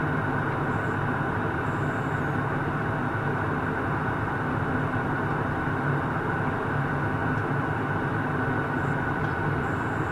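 Steady engine and airflow noise heard inside an airliner cabin in flight, even and unchanging.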